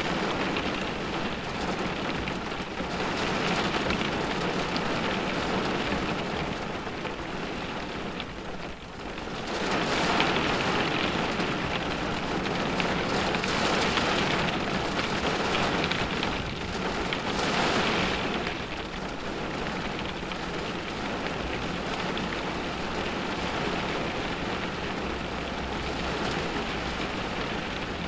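Rain hitting the roof and windows of a car, heard from inside the cabin: a steady patter that swells louder several times, most strongly about ten seconds in and again near seventeen seconds.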